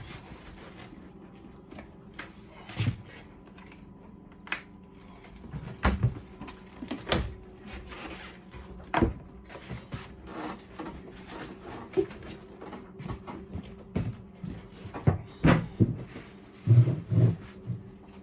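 Irregular knocks and clicks, a few louder clunks among them, over a faint steady hum.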